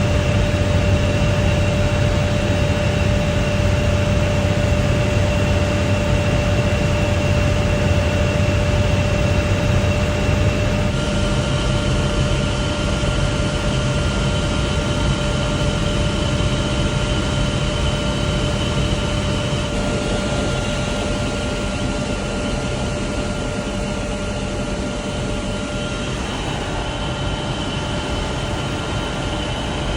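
Helicopter turbine engine and rotor running steadily with a constant whine, in a few spliced stretches whose tone shifts abruptly about 11, 20 and 26 seconds in.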